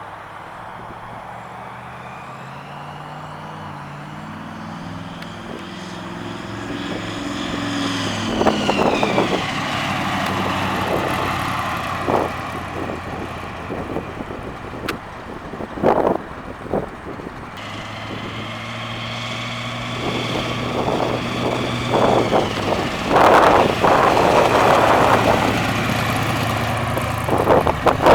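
Supercharged 350 cubic-inch V8 of a 1970 Chevrolet Camaro running under acceleration, its pitch climbing twice. There is a sharp drop in pitch about a third of the way through, and loud sharp cracks come in between and near the end.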